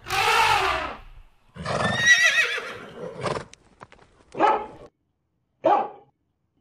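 Animal sound effects: a short harsh animal call at the start, then a horse whinnying with a wavering cry about two seconds in, followed by a few hoof clip-clops. Two short dog barks come near the end, one about a second after the other.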